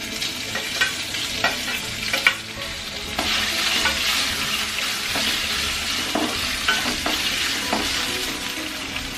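Pre-boiled potato cubes sizzling in hot oil in a kadai while a spatula stirs them, scraping and knocking against the pan a few times early on. The sizzle grows louder about three seconds in.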